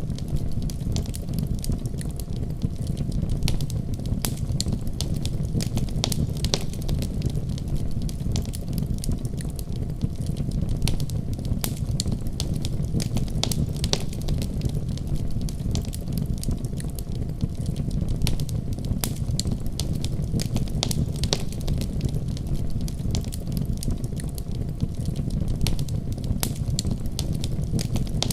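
Wood fire crackling in a fireplace: many small, irregular pops and snaps over a steady low rumble of the flames.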